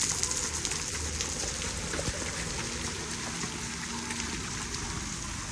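Steady rain falling: a continuous hiss with many small drop clicks.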